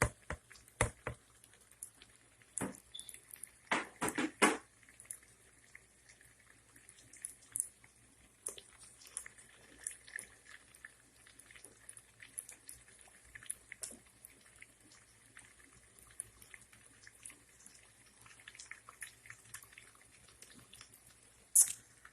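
Sliced potatoes frying in hot olive oil and butter in a pan: a steady faint sizzle with scattered small crackles and pops. A quick run of knocks opens it as the last slices drop in, with a brief louder noise about four seconds in.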